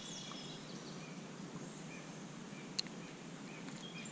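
Faint high bird chirps over a steady outdoor background hiss, with one sharp click a little under three seconds in.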